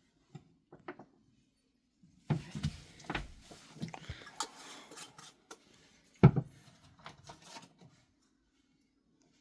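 Clatter and knocking of hard objects being handled, a run of clicks and knocks through the middle and one sharp, loud knock a little past halfway.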